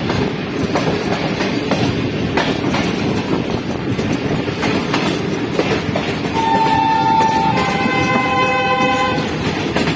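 Pakistan Railways Karachi Express passenger train running, with a steady rumble and clickety-clack of wheels over the rail joints. About six seconds in, the locomotive horn sounds one steady multi-tone blast held for about three seconds.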